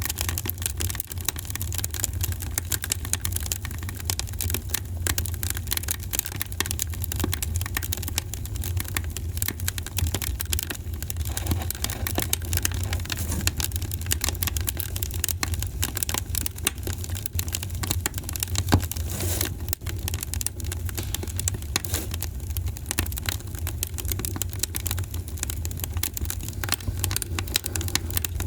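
Wood fire crackling with a constant scatter of small pops over a steady low rumble, with one sharper pop about two-thirds of the way through.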